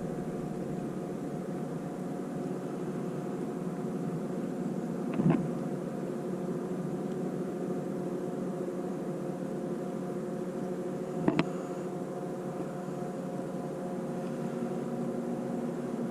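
Steady engine drone made up of several held low tones. A short knock about five seconds in, and a quick double knock about eleven seconds in.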